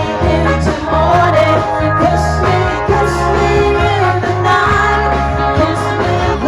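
A live band playing a song, with a voice singing over it.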